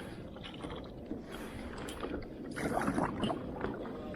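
Water sloshing and splashing around a fishing kayak at sea, getting a little busier past the middle.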